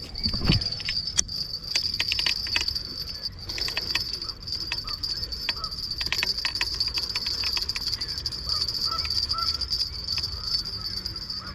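A steady high insect trill, like crickets, runs under a string of irregular sharp clicks and light rattles. A few faint short chirps come in during the second half.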